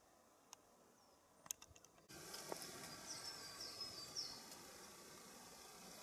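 Near silence with a few faint clicks. About two seconds in, faint outdoor ambience cuts in, carrying a bird's high, thin song of repeated falling notes.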